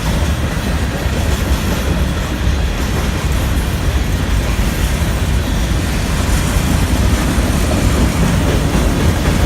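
Freight train of grain hopper cars rolling past, a steady loud rumble of wheels on the rails with some clickety-clack.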